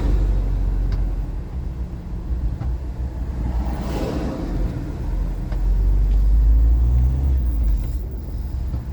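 Low rumble of a car's engine and tyres heard from inside the cabin while driving slowly, swelling a little for a couple of seconds past the middle.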